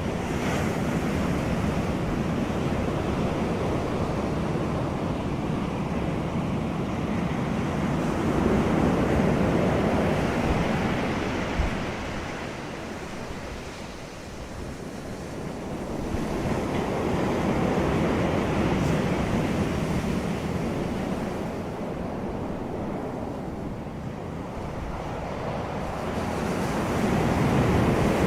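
Wind blowing outdoors and buffeting the microphone: a steady rush with a low rumble that swells and eases slowly, in long waves every several seconds.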